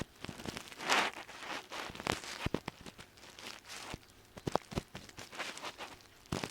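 Ear pick scraping and rustling inside an ear, with dry crackles and sharp little clicks at irregular intervals; the loudest scrape comes about a second in.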